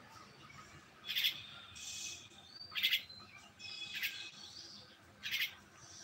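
Birds calling: four short, harsh calls spaced a second or so apart, with a few thin whistled notes between them.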